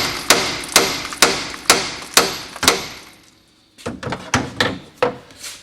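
Hammer blows on a gear puller tensioned against a Pitman arm, struck to shock the arm off the steering gear shaft. Six sharp strikes land about two a second, each ringing briefly. After a short pause near the three-second mark come lighter, quicker knocks, and the arm stays seized on the shaft.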